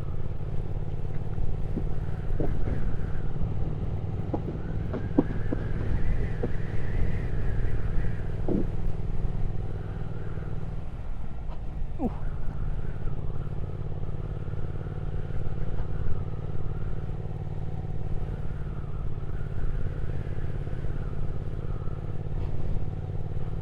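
Triumph Speed Twin 1200's parallel-twin engine running steadily at a cruise, heard from on board the motorcycle.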